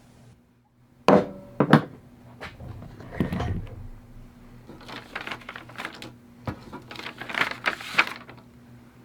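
Irregular knocks, clicks and clatters of hard objects being handled, over a steady low hum. Two sharp knocks come about a second in, a rougher clatter follows around three seconds, and bunches of clicks fall in the last few seconds.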